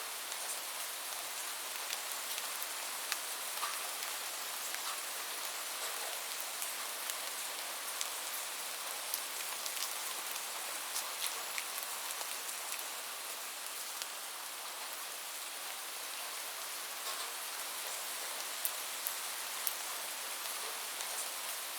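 Steady rain: an even hiss with many scattered sharp ticks of individual drops striking a surface.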